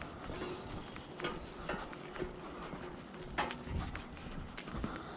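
Scattered light knocks and clicks at an uneven pace, a few each second.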